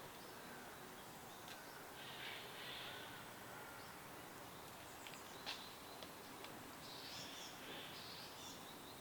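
Birds calling faintly over a steady background hiss, with a couple of bursts of calls about two seconds in and again near the end, and a sharp click about halfway through.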